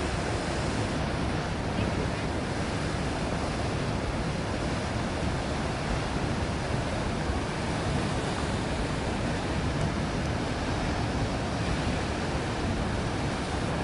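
Steady rushing of a large volume of water pouring from a burst water main.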